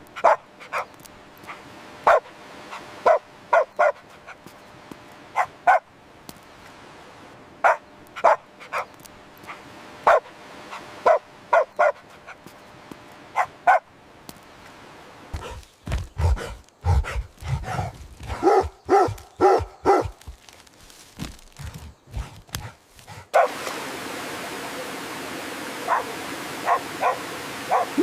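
Puppies barking and yipping in short, sharp calls scattered throughout, with a quicker run of barks around the middle. A steady background hiss starts abruptly a little before the end.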